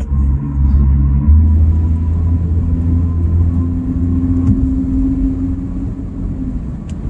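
Infiniti Q50's exhaust, a Rev9 resonator-delete midpipe into a PLM axle-back, giving a deep, steady note while the car is driven. It grows louder and shifts slightly higher about a second in.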